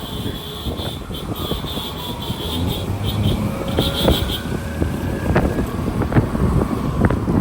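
A motor vehicle running, with a low rumble and an engine note that rises and falls, and wind buffeting the microphone.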